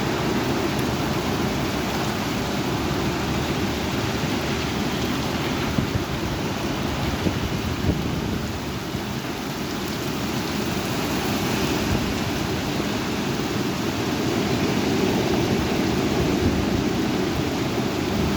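Severe thunderstorm: a steady rush of heavy rain and strong wind, with heavy low buffeting from the wind on the microphone.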